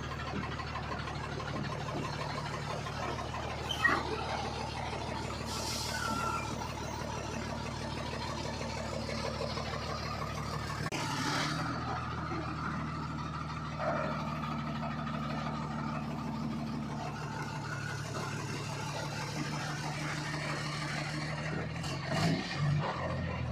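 Heavily loaded truck's engine running steadily as it drives, its note changing about eleven seconds in. A few short knocks sound now and then.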